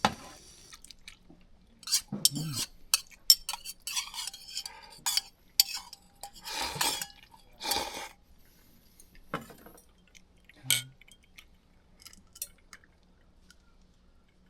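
Cookware and utensils clinking and scraping in a run of irregular clicks and short scrapes, busiest in the first half and thinning out after about ten seconds.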